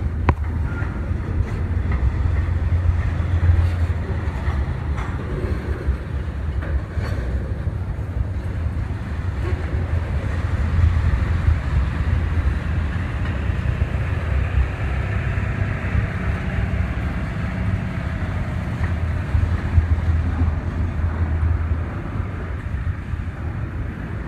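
A train rolling past: a steady low rumble of wheels on rail, with a few faint clicks.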